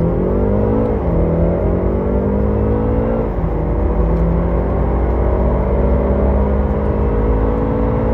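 Turbocharged four-cylinder car engine at full throttle, its pitch climbing through the gears with a sudden drop at each upshift, about a second in and again after three seconds, then rising slowly through a long gear.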